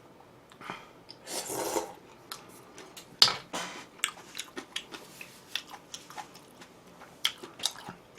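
Close-miked chewing and wet mouth sounds of someone eating, with many small sharp clicks, a longer noisy burst about a second and a half in and a sharper click about three seconds in.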